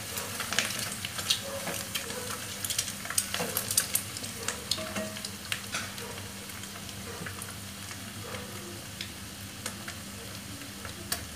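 Eggs frying in hot oil with onion, green chilli and curry leaves, sizzling with many small crackling pops. A spatula stirs and scrapes the pan in the first few seconds, and the crackle thins out later.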